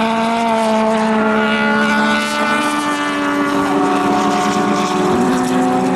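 Endurance race car engines running at high revs on track, several engine notes overlapping, their pitch stepping down and up a few times.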